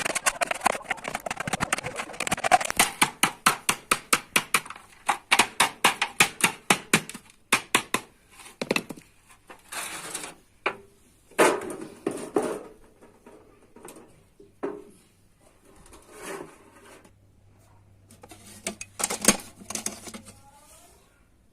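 Hammer blows on sheet metal in a quick, even run of about four strikes a second, which stops about eight seconds in. After that come scattered single knocks and metal clatter.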